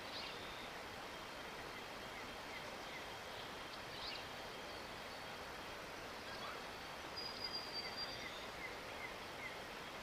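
Faint high chirps and whistles of small birds over steady background noise, with a row of short falling chirps about two to three seconds in and again near the end, and a thin high whistle about seven seconds in.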